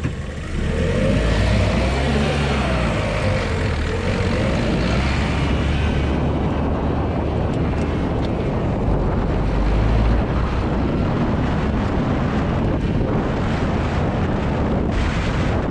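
Road and tyre rumble picked up close to the front suspension strut of a LADA Vesta SW Cross driven fast over a rough, bumpy road. A steady loud rumble with only a few faint ticks and no hard knocks: the updated SAAZ struts are taking the bumps softly without knocking.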